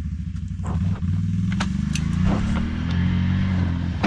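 An engine running steadily at low revs, its pitch wavering slightly, with a few light clicks and knocks over it.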